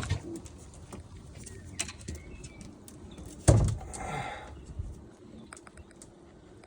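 Domestic racing pigeons cooing softly in a loft. There is a sharp knock about three and a half seconds in, followed by a brief rustle.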